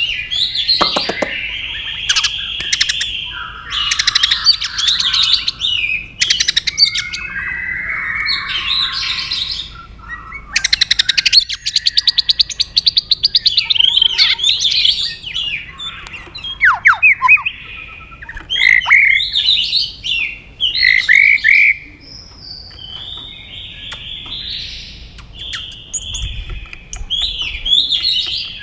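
White-rumped shama singing a continuous, varied song of whistled notes, sweeping phrases and rapid rattling trills, changing phrase every second or two.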